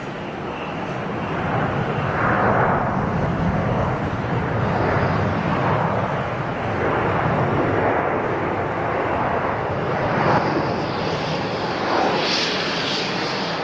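Distant jet roar of a Boeing 747-8's four GEnx turbofans at takeoff power, heard from about 2.5 km away: a rolling rumble that swells and fades every second or two.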